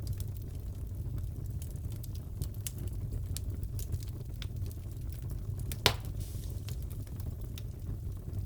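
Crackling wood fire in a fireplace: a steady low rumble with scattered small crackles and one sharper pop about six seconds in.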